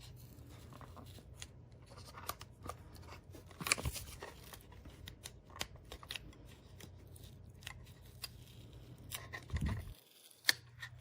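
Silver foil tape being peeled off a plastic hard-drive enclosure: scattered small clicks and crinkles, a louder crackle about four seconds in, then a thump and a sharp click near the end.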